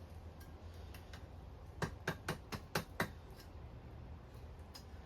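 About six light hammer blows, about four a second, on a white-hot chain link on the anvil, starting about two seconds in, setting a forge weld.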